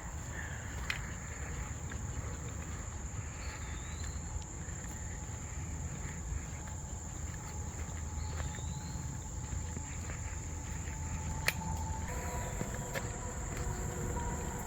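Steady, high-pitched insect drone in woodland, with a couple of brief bird chirps. Near the end a distant chord of steady tones begins, typical of a far-off train horn.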